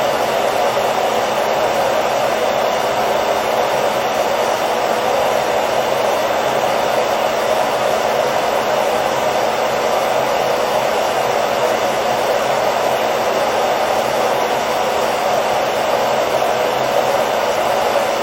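Hair dryer running, a steady unbroken rushing noise with a faint motor hum, played as white noise to help a baby sleep.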